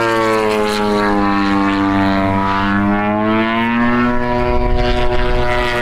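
Giant-scale RC aerobatic airplane's 100cc gas engine and propeller running at high power, its pitch sagging slightly, then rising about two and a half seconds in before settling steady.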